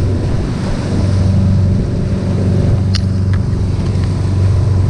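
Tour boat's engine running at a steady speed, a low even hum with wind and water noise over it.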